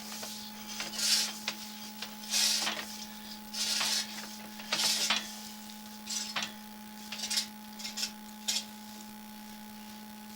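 Sewer inspection camera push rod being pushed along the pipe: a series of rough scraping rubs, roughly one every second or so, over a steady electrical hum.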